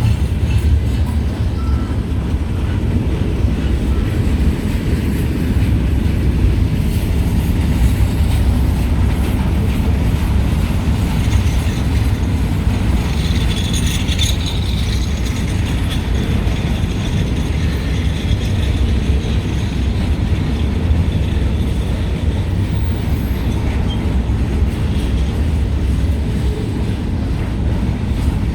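Freight cars of a long CSX freight train rolling past on the rails: a steady, loud low rumble of wheels on track, with a brief high screech about halfway through.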